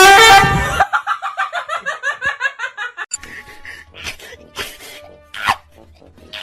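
Laughter, likely an added comic laugh sound effect: a loud burst, then about two seconds of rapid repeated laughing, followed by scattered short knocks and clicks.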